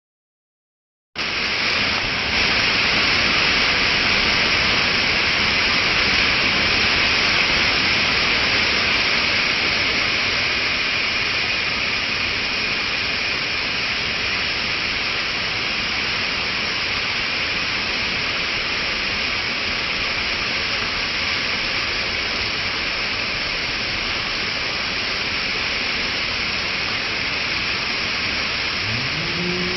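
Steady rushing noise of running water, starting abruptly about a second in and holding level, brightest in its hissy upper range.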